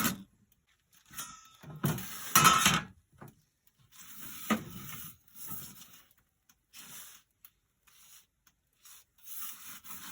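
Metal pizza peel scraping and knocking on the stone floor of a wood-fired pizza oven in short bursts, as the pizza is turned. The loudest scrape comes about two seconds in, with a sharp knock a couple of seconds later.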